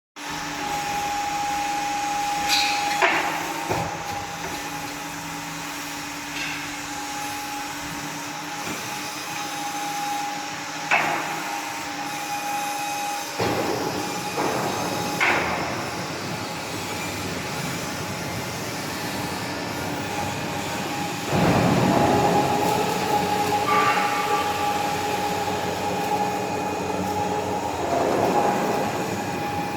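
Hydraulic timber crane working: a steady whine from the hydraulics, broken by occasional sharp knocks and clanks. The sound shifts in character about halfway through and grows louder about two-thirds of the way in.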